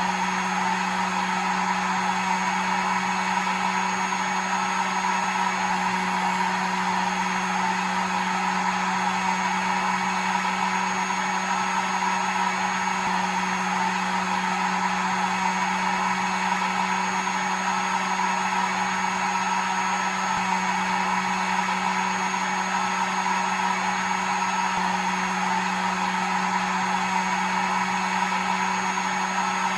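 Electric hair dryer running steadily: an even rush of blown air over a constant motor hum.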